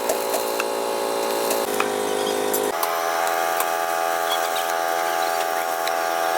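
A machine motor running steadily with a humming tone that shifts abruptly twice, about one and a half and two and a half seconds in.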